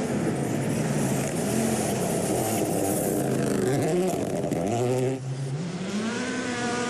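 Rally car engine revving hard through the gears, its pitch climbing and dropping back at each shift several times; just after five seconds the sound changes abruptly, then the pitch climbs again.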